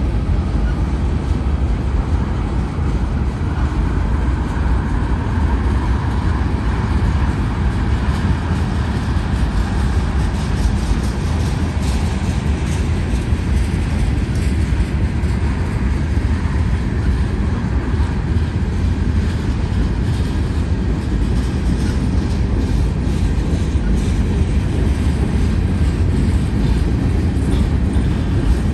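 Freight train cars (boxcars and tank cars) rolling steadily past: a continuous rumble of steel wheels on rail, with occasional faint clicks.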